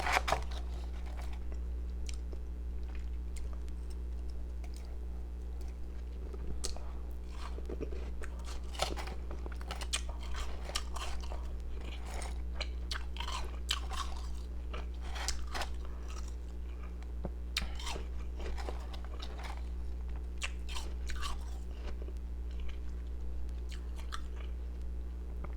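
A person biting and chewing ice pieces close to the microphone: irregular crunches and crackles, with a loud bite right at the start. A steady low hum runs underneath.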